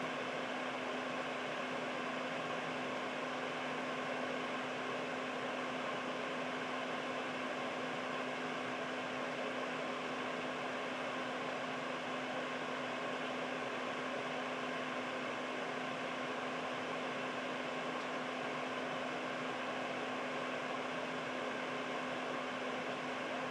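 Air purifier fan running steadily: an even rush of air with a steady low hum underneath.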